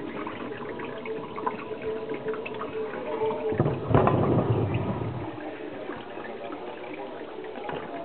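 Water spraying and splashing inside an Indesit DSG 263EU dishwasher during its wash cycle, heard from inside the tub through a plastic bag. It grows louder for a moment about four seconds in.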